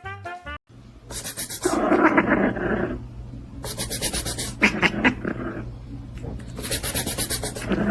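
A pet making rough, hissing, rasping sounds in about three bursts, each lasting a second or so.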